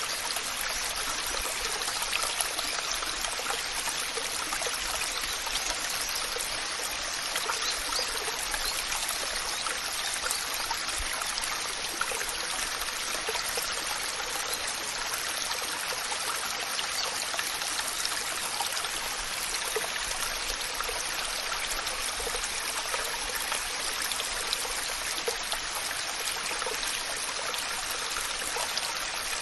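Waterfall rushing steadily: falling and splashing water in an even hiss, with small splashes and spatters throughout.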